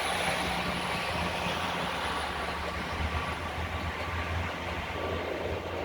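Great Western Railway Class 802 bi-mode train pulling out on its underfloor diesel engines: a steady engine hum with wheel and rolling noise.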